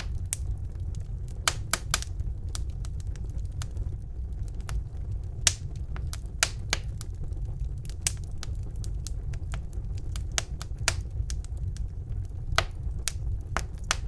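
Wood fire in a fireplace crackling: irregular sharp pops and snaps, a few of them loud, over a steady low rumble of the flames.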